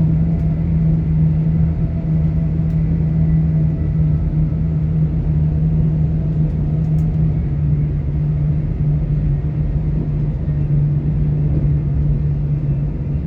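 Cabin noise of a GWR Class 800 IET train running on the line, heard from inside the carriage: a steady rumble with a strong low hum, whose pitch dips slightly about halfway through.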